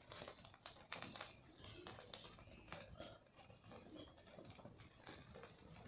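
Wood bonfire crackling faintly, with irregular snaps and pops.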